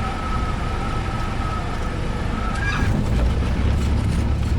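Cessna 172S stall warning horn sounding as a steady reedy tone over the engine and cabin noise during the landing flare, stopping about two and a half seconds in; a deeper rumble then grows louder.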